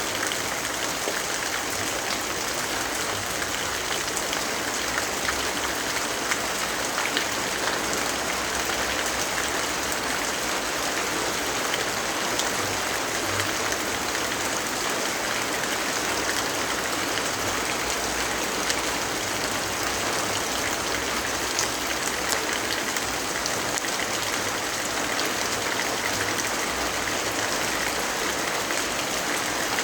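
Steady rainfall: an even hiss with scattered light ticks of drops.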